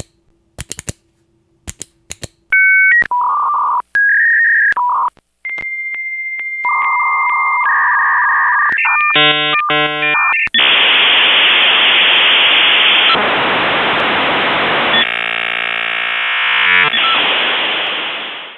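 Dial-up modem connecting: a few clicks, then switching two-note tones and a steady high tone, a brief burst of many tones at once, and then a long hissing static of the modems training.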